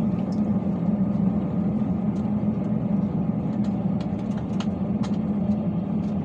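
Steady hum and rumble inside the cabin of an Airbus A320-216 on the ground before takeoff, with a few faint clicks.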